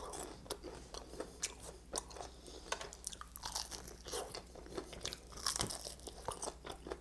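A person biting and chewing the meat off a fried chicken drumstick bone, with many small irregular crunches and clicks.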